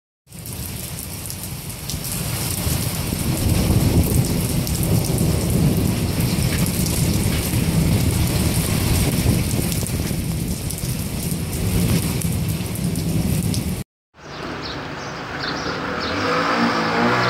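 Heavy rain pelting standing water on pavement: a dense, steady hiss and patter. After a brief cut-out near the end, a motorcycle engine comes in, rising as it approaches through floodwater.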